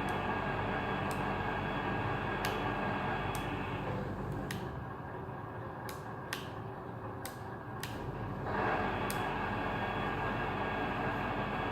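Radio-controlled model Scania truck running: a steady mechanical hum of many fixed tones with sharp clicks every second or so. The upper part of the hum drops away about four seconds in and swells back about four seconds later.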